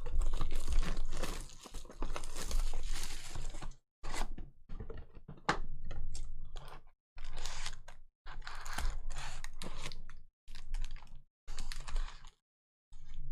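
Trading card packaging being torn open and crinkled: the plastic wrapping of a hobby box and its foil packs ripped and handled in a string of short bursts with brief gaps between them.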